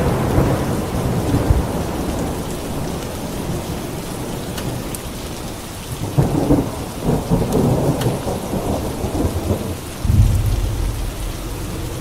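Steady rain with thunder. A rumble sounds at the start, a crackling peal of thunder rolls from about six seconds in, and another heavy low rumble breaks in near ten seconds.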